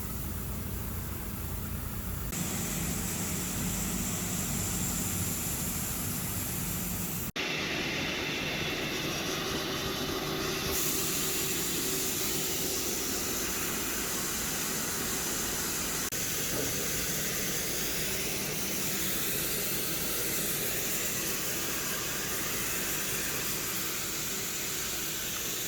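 Grain-handling machinery running steadily with a hissing rush as grain is unloaded and conveyed into silos. The sound changes abruptly several times, about two, seven and eleven seconds in.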